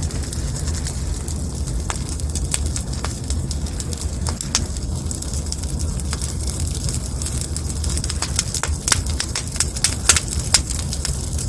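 Wood fire crackling, with frequent sharp pops that come thicker in the second half, over a steady low rumble.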